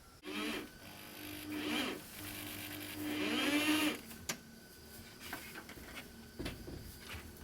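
A small electric power tool running in three short surges for about three and a half seconds, with a steady hum and pitch sweeping up and down as it works the wood, then stopping. A few light knocks follow.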